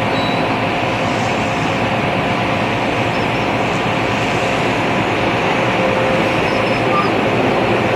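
Jet airliner engines running, a loud, even noise with several steady whining tones that hold their pitch and do not rise or fall.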